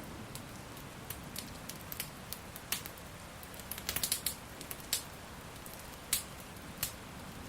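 Wood fire crackling: irregular sharp pops and snaps, a quick cluster of them about halfway through, over a steady hiss of rain.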